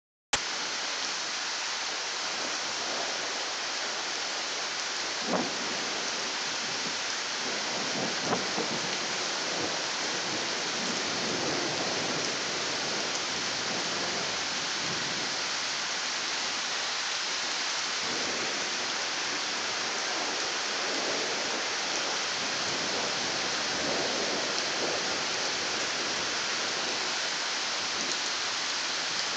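Steady hiss of heavy rain, starting suddenly just after the beginning, with a few sharper drip hits about five and eight seconds in.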